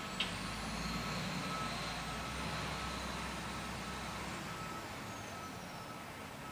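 Garbage truck's engine running with its reversing alarm beeping steadily; the engine rumble eases about four seconds in. A single sharp click sounds just after the start.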